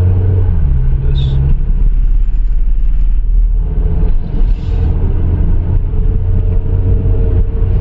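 Hyundai Tucson's engine and drivetrain running while driving on a road test, a steady low drone whose pitch shifts in the first second and a half. The car is being tested for engine knocking and delayed, incomplete automatic-transmission shifts.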